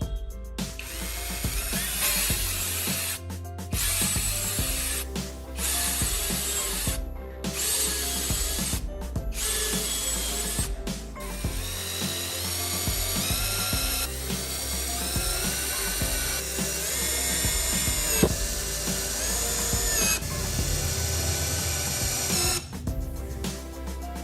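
Electric power tool working wood, running in stretches cut by short pauses, then a longer run whose motor pitch rises and falls, over background music with a steady beat.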